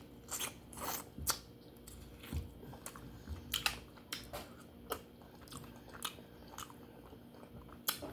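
Close-up eating sounds of baked duck head: irregular sharp crunches, cracks and wet smacks as the meat is bitten and chewed off the bone.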